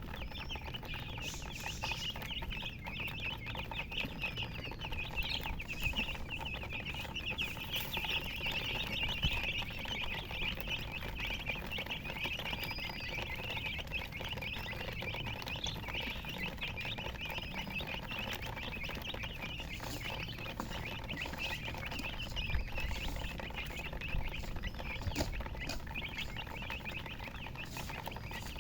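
A brood of chicks peeping continuously, many high chirps overlapping in a dense chorus.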